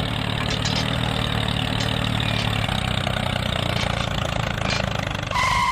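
Tractor engine idling steadily with an even low hum. Near the end a short, steady high beep-like tone sounds over it.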